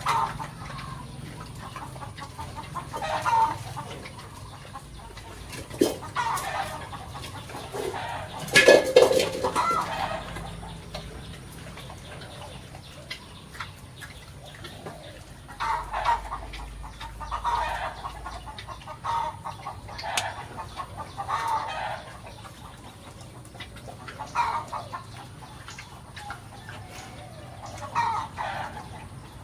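Chickens clucking, short calls repeating on and off, with one louder, longer call about nine seconds in.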